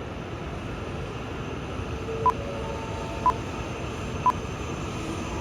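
Steady running noise of a Shinkansen train, with three short high beeps a second apart starting about two seconds in, a countdown before the answer.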